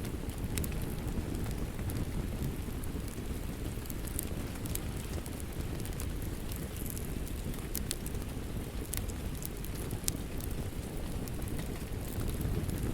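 Steady rain with a deep, even rumble, and a wood fire crackling with scattered sharp pops.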